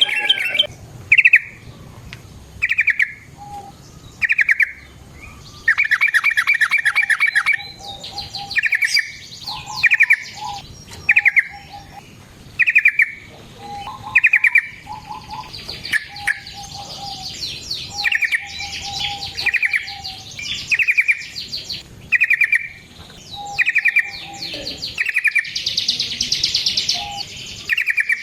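Yellow-vented bulbul (trucukan) chattering: short rattling calls repeated about once a second, with two longer rolling trills, one about six seconds in and one near the end, and softer lower whistled notes in between.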